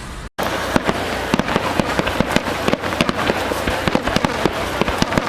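Fireworks going off in rapid succession: many sharp bangs and crackles, several a second, over a steady rumble. There is a brief break about a third of a second in.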